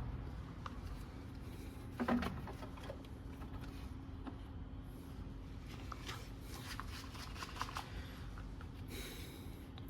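Faint scattered clicks and light handling noises over a steady low hum, with a brief scrape about two seconds in and a short hiss near the end.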